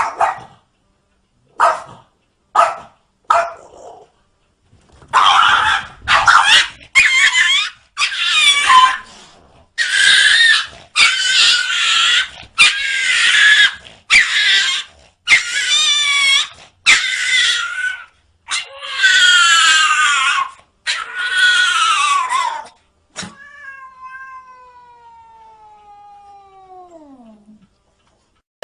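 Domestic cats yowling and meowing in a string of short, loud cries, each about a second long with wavering pitch. Near the end a quieter, longer call glides steadily down in pitch.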